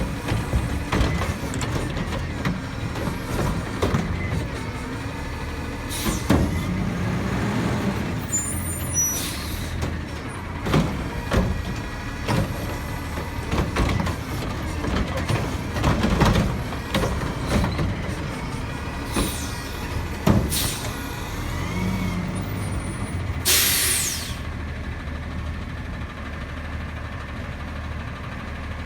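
Garbage truck's engine running, with repeated metal clanks and bangs and a sharp hiss of air late on.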